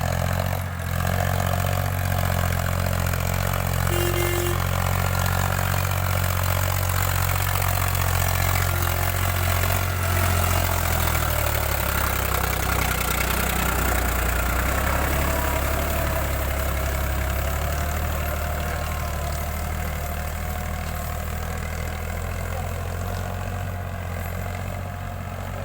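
Powertrac Euro 50 tractor's diesel engine running steadily, its pitch shifting slightly about halfway through.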